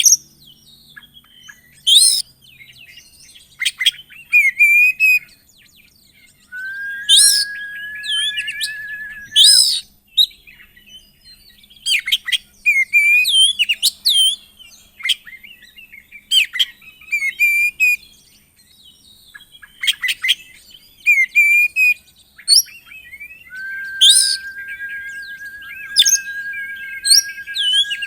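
Oriental magpie-robin (kacer) singing a full, varied song of loud, sharp whistles and chirps. Twice it holds a long, steady, finely trilled note for about three seconds.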